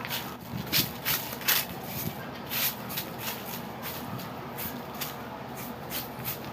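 Irregular scraping strokes of debris being swept across the ground of a yard, one or two a second, loudest in the first couple of seconds.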